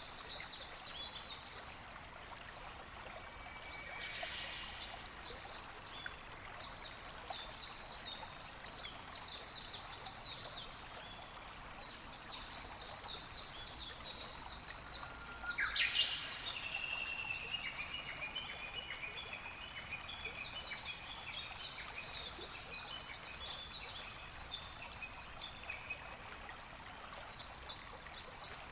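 Several small birds singing with rapid high trills and short, very high notes repeated every second or two, over a steady hiss of water. About halfway through, a louder call sweeps up sharply and runs on as a long, slowly falling trill.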